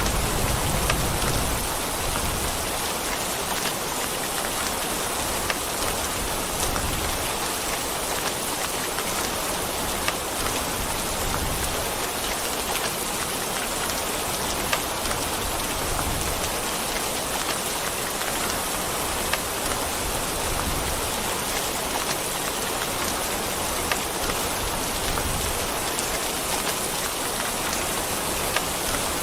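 Steady rain falling on a surface, with scattered single drops ticking out of the hiss. A low rumble underneath fades out in the first couple of seconds.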